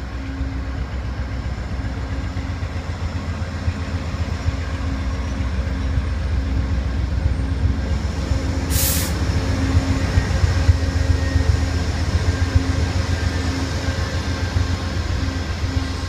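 Amtrak passenger train pulling into the station: the GE Genesis diesel locomotive runs with a heavy low rumble, then the passenger cars roll past, growing louder toward the middle. A short, loud hiss comes about nine seconds in.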